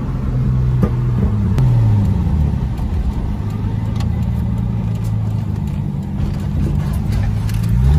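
Car engine running steadily under way, its pitch dropping about two seconds in and climbing again near the end.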